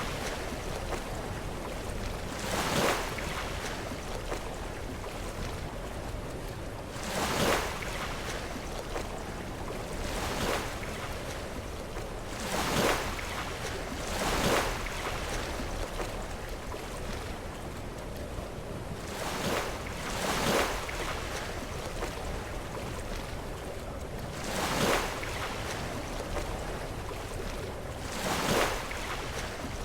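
Sea waves crashing against shore rocks, one surge every two to five seconds, about nine in all, over a steady low rumble of surf.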